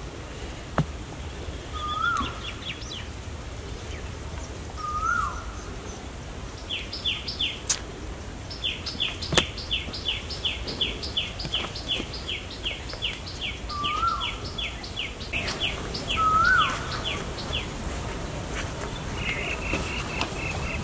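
Birds calling: one repeats a short rising-and-falling whistle every few seconds, while another gives a long run of quick high notes, about three or four a second, through the middle, and a faster chatter comes in near the end. A few sharp clicks stand out, the loudest about nine seconds in.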